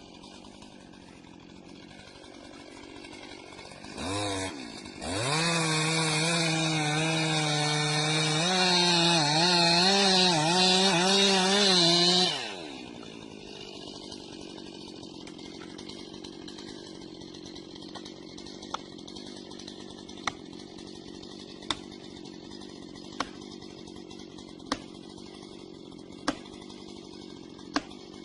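Chainsaw idling, revved briefly about four seconds in, then run at full throttle for about seven seconds with its pitch wavering as it cuts, before dropping back to idle. Over the idle, sharp knocks come about every second and a half.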